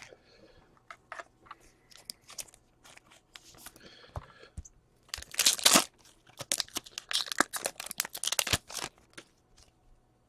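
Trading-card pack wrapper crinkling and tearing, with cards being handled: a run of sharp crackles and clicks, loudest about halfway through.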